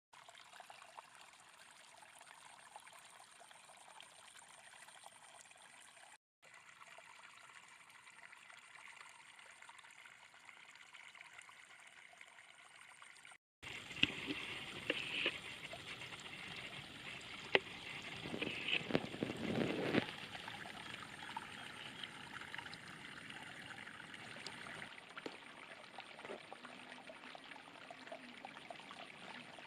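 Running water trickling and splashing, in spliced pieces that cut off abruptly twice. After the second cut it is louder, with scattered sharp clicks and knocks.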